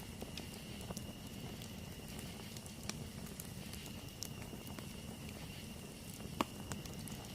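Campfire crackling: scattered sharp pops and snaps of burning wood over a low steady rumble, with one louder pop about six seconds in. A faint steady high-pitched tone sits behind it.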